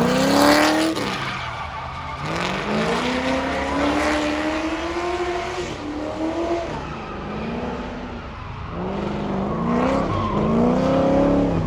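Car engines revving, their pitch climbing and falling again and again over a steady background rumble.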